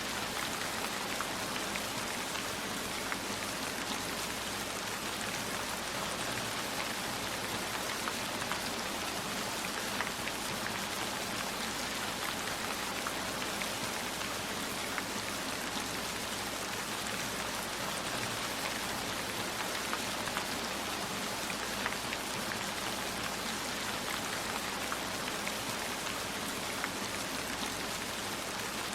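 Steady rainfall, a dense even hiss with scattered individual drops ticking on a surface.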